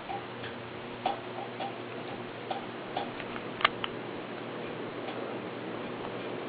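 Ceiling fan running with a steady hum, with a string of irregular clicks over the first few seconds, the sharpest just past the middle.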